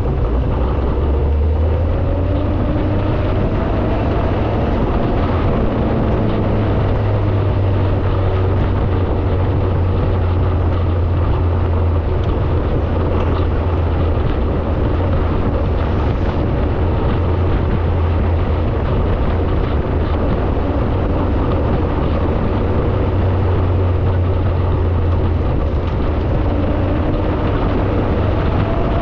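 Hillman Imp's rear-mounted four-cylinder engine running while the car is driven, a steady drone whose note rises and eases a few times with the revs.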